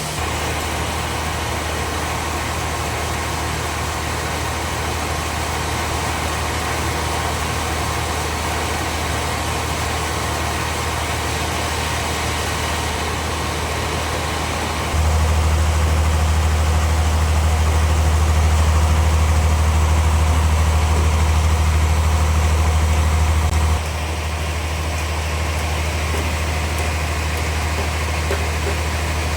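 Sawmill bandsaw machinery running with a steady low hum and hiss. It gets markedly louder at about the middle, holds for roughly nine seconds, then drops back.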